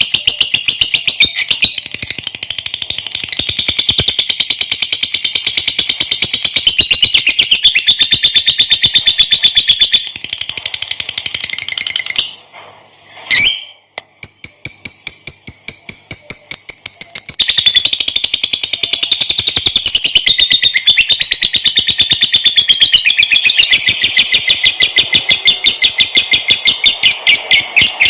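Lovebird in a long "ngekek" trill: a rapid, unbroken chatter of high, sharp notes. It breaks off briefly about twelve seconds in, with a single note in the pause, then carries on.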